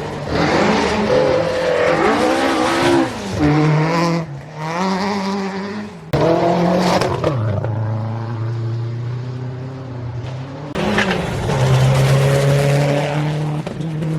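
Rally car engines revving hard as the cars accelerate up the hill out of a hairpin. The pitch climbs and drops sharply several times with gear changes.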